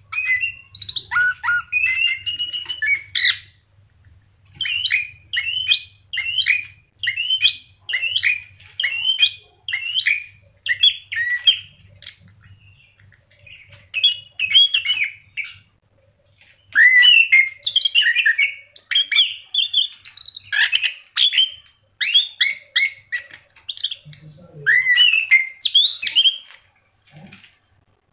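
Orange-headed thrush (anis kembang) singing vigorously in full song ("gacor"): a fast, unbroken stream of short, varied whistled and chattering phrases. The song breaks off briefly about 4, 12 and 16 seconds in.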